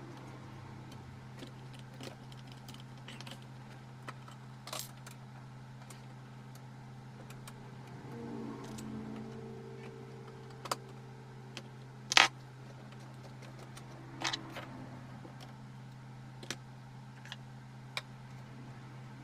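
Scattered light clicks and taps of small objects being handled, one sharper click about twelve seconds in, over a steady electrical hum; a brief pitched whir rises and falls about eight seconds in.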